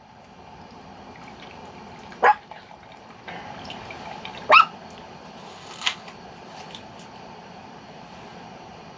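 A dog barks three times, a couple of seconds apart, each a short sharp bark, the last one weaker, over a steady background hiss.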